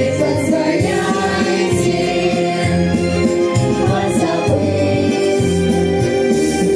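A vocal group singing a song together over an instrumental backing track, with long held notes.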